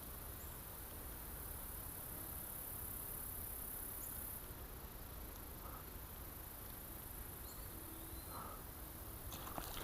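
Faint creekside ambience: a steady high-pitched insect drone that weakens about halfway through, with a few faint chirps in the second half and a few clicks near the end.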